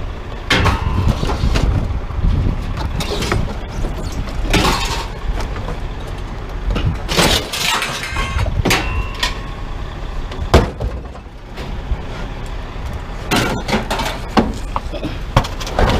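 Scrap items being pulled out of a truck bed and set down, with a string of irregular clanks and bangs over a steady low rumble.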